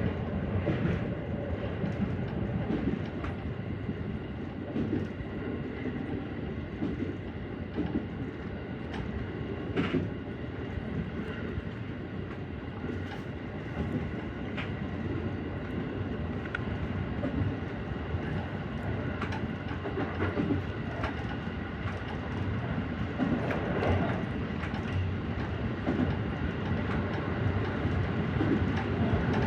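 JR Central 313 series electric multiple unit running along the line: a steady rumble of wheels on rail with a faint steady hum and scattered clicks as the wheels cross rail joints.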